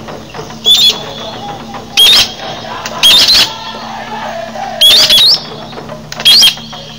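A bird calling loudly and repeatedly: five short, high whistled calls with quick pitch sweeps, about a second and a half apart.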